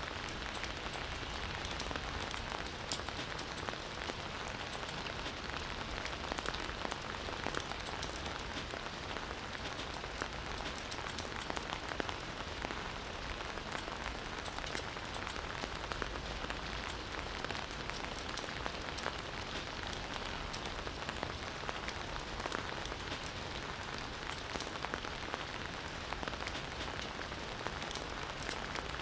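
Campfire burning with steady crackling: a dense run of small pops and snaps over a continuous hiss.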